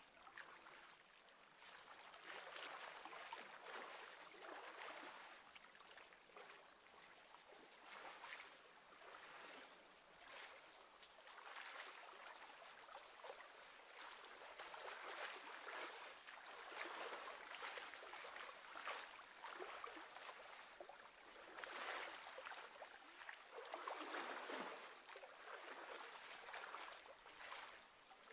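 Faint sound of choppy lake water lapping, swelling and easing every couple of seconds.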